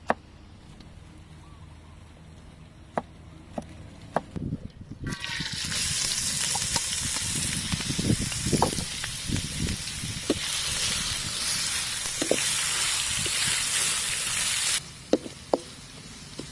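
A few sharp chops of a cleaver on a thick wooden chopping board, then, about five seconds in, shredded ginger sizzling in hot oil in a steel wok, with a wooden spatula knocking against the pan as it is stirred. The sizzling cuts off suddenly near the end.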